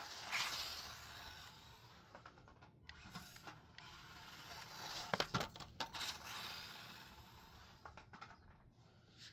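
Small 1/24-scale RC short course truck running, with its motor and gears whirring and its tyres scrubbing on the surface. A few sharp clicks and knocks come about five to six seconds in.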